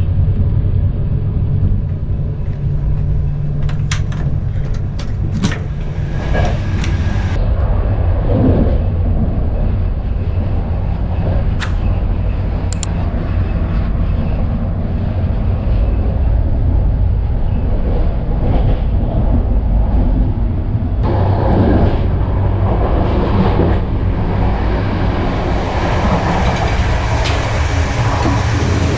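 Sleeper train carriage running along the line, heard from inside the compartment: a steady low rumble of wheels on track, with a few sharp clicks and rattles. A louder rushing noise builds over the last third.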